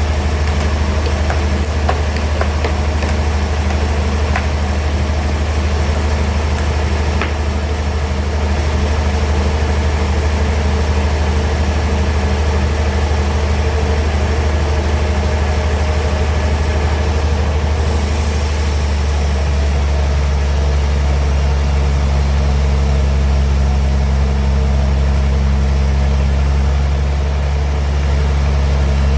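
Band sawmill machinery running with a steady low, heavy hum. About two thirds of the way in, a high hiss joins and the pitch of the hum shifts.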